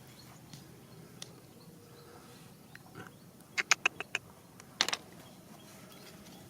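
Stones clicking and knocking together as river gravel is dug through: a couple of faint clicks, then a quick run of about five sharp clicks about halfway in, and a short rattle a second later.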